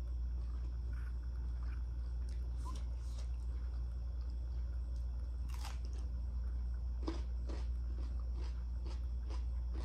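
A person chewing food close to the microphone, with short crisp crunching clicks that come thicker in the second half. A steady low hum lies under it throughout.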